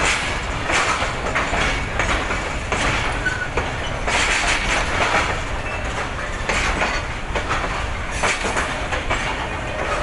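Karakoram Express passenger coaches rolling past, their wheels clicking over rail joints in clusters about every one to two seconds over a steady rumble.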